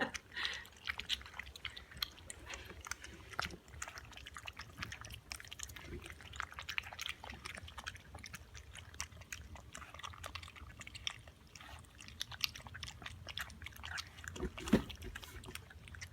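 Chocolate Labrador puppies lapping milk formula from a dish: a steady run of small wet smacks and clicks, with one louder knock near the end.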